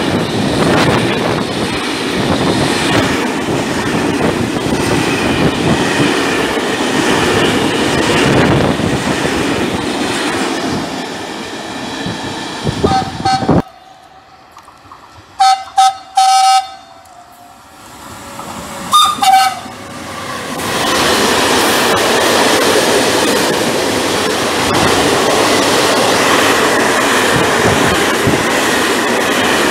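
A long freight train of hopper wagons rolls past close by with steady wheel noise, cut off suddenly about 13 seconds in. After a quiet moment, an approaching electric locomotive sounds its horn in several short toots. From about 20 seconds in, a second hopper freight train runs past.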